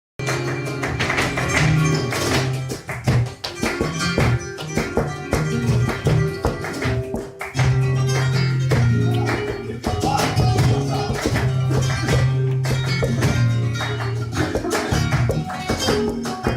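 Flamenco music: guitar playing, with many sharp percussive hits struck over it throughout.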